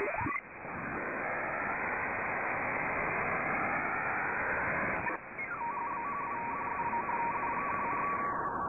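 Shortwave (HF) radio receiver static in a narrow band, with a short sweep in pitch at the start. From about two-thirds of the way in, a steady tone switches on and off in an uneven pattern over the hiss.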